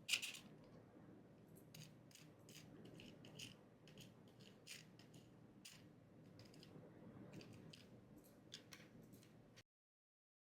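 Faint scattered clicks and light ticks, like small hard objects being handled, over a low hum. A sharper click at the very start is the loudest. The sound cuts off abruptly about a second before the end.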